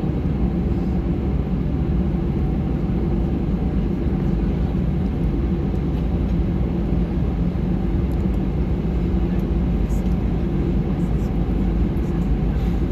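Steady jet engine and airflow noise of an Airbus A319, heard inside the passenger cabin: an even drone with a low, level hum that neither rises nor falls.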